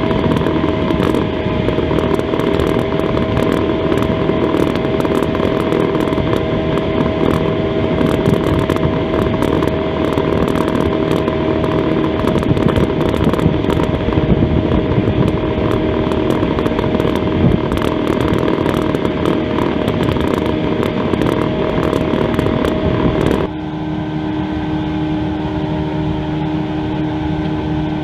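Johnson 120 V4 two-stroke outboard running steadily with the boat under way. About 23 seconds in it is throttled back and drops to a lower, quieter note.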